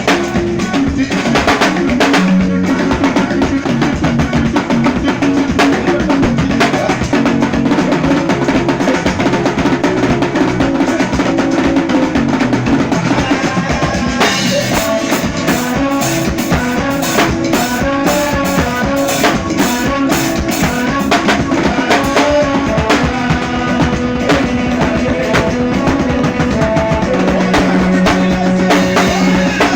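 Drum kit played with bass drum, snare and rimshot hits over pitched backing music. The playing gets busier and brighter in the high end about halfway through.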